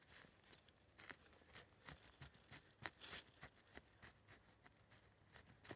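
Faint, irregular crunches and rustles, a dozen or so scattered clicks over a near-silent background.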